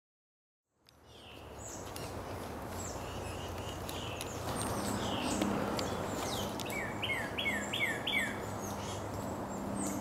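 Wild birds calling in woodland: many short, high chirps and sweeping notes over a steady low hum, starting about a second in, with a quick run of five falling notes about seven seconds in.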